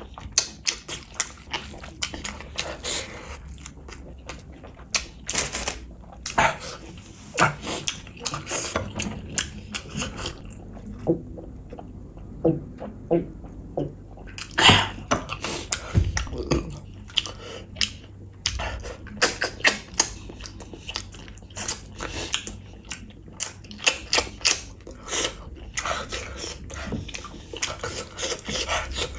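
Close-miked mukbang eating sounds: wet chewing, lip smacks and sticky mouth clicks of someone eating beef bone gravy with basmati rice by hand. There is a quieter pause a little past a third of the way in, and then the chewing resumes.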